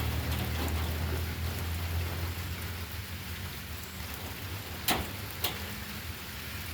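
Steady rain falling, heard from under shelter, with a low steady hum underneath. Two sharp clicks come about half a second apart, a little before the end.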